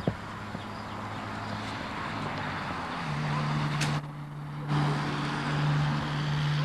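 A motor vehicle's engine running with a steady low hum that grows louder and drops to a lower, stronger tone about three seconds in. A single sharp click comes right at the start.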